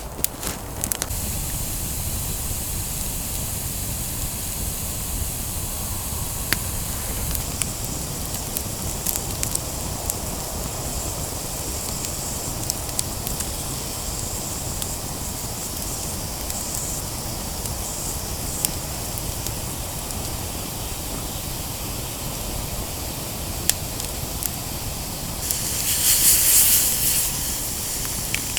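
Wood campfire burning, crackling with scattered sharp pops over a steady rushing noise. About 25 seconds in, a louder hiss rises for about two seconds.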